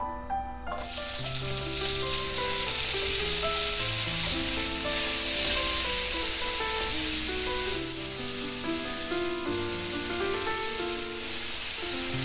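Green garlic stalks and bulbs sizzling in hot oil in a wok as they are stir-fried. The sizzle starts suddenly about a second in, as the garlic goes into the oil, and then holds steady.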